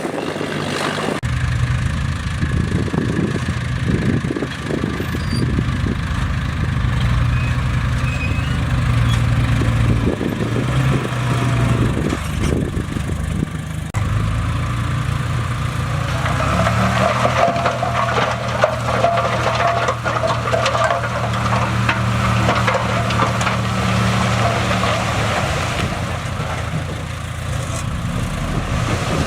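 Bulldozer's diesel engine running steadily under load, its pitch shifting now and then. From about halfway, a higher, scratchy clatter joins it for about ten seconds.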